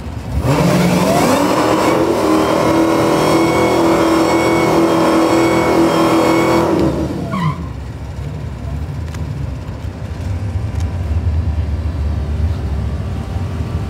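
Supercharged Hemi V8 of a Dodge Challenger SRT Demon 170 doing a burnout: the revs climb about half a second in and are held steady for about six seconds while the rear tyres spin, then drop back. After that comes a lower engine rumble.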